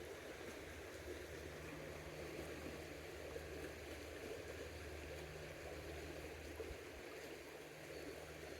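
Steady rush of a creek's flowing water, with a faint low hum underneath.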